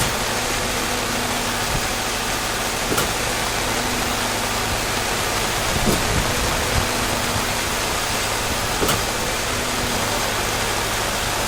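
Steady hiss of rain, with a low steady hum underneath and a few faint ticks.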